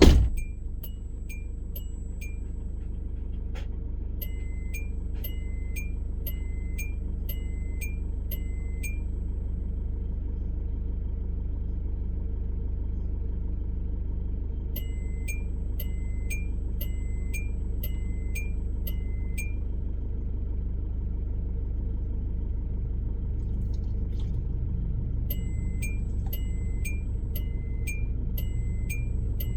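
A car engine idling steadily, heard from inside the car, with a regular electronic ticking from the dashboard, about one tick a second, that comes and goes in several spells.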